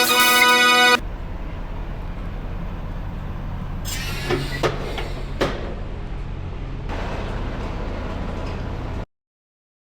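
Semi truck's diesel engine running with a steady low drone, with three short sharp noises a little past the middle. The tail of background music plays in the first second, and the sound cuts to dead silence about a second before the end.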